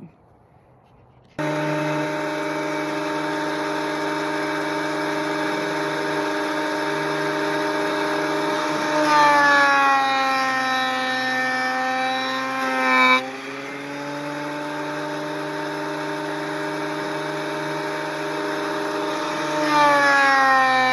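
Craftsman benchtop thickness planer running with a steady high whine, starting suddenly about a second in. Twice, about halfway through and again near the end, it gets louder and its pitch drops as a hardwood board feeds through and the cutterhead takes the load. After the first cut ends the level falls and the pitch comes back up.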